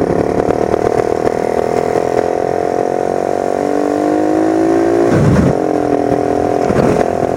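Motorcycle engine running under way, its pitch climbing slowly and then dropping about four seconds in. A brief low rumble comes about five seconds in.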